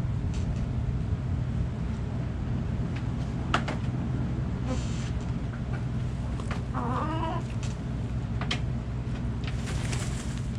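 Backyard hens with one short wavering call about two-thirds of the way through, amid scattered clicks and brief rustles, over a steady low hum.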